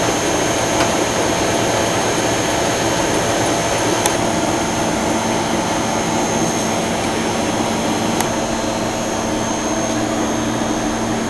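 Monforts KNC 602 CT CNC lathe switched on and idling: a steady whirring machine hum with a thin high whine, a lower hum coming in about four seconds in, and two faint clicks.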